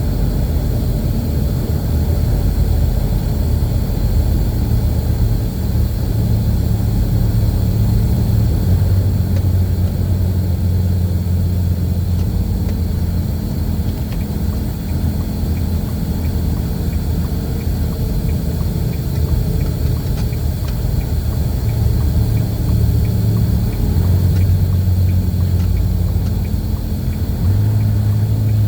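Semi truck's diesel engine running, a loud low drone whose pitch steps up and down several times as it drives.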